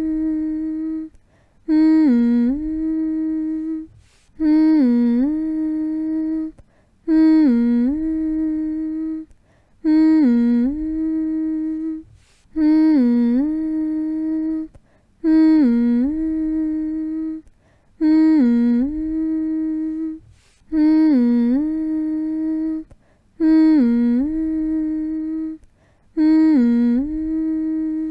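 A person's voice humming one low, steady note over and over, each hum dipping briefly in pitch at its start and then held. Each hum lasts about two seconds, with a short gap for breath before the next, about every two and three-quarter seconds.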